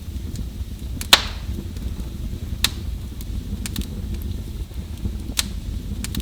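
Wood fire burning: a steady low rumble of flames with sharp crackling pops, about half a dozen, the loudest about a second in.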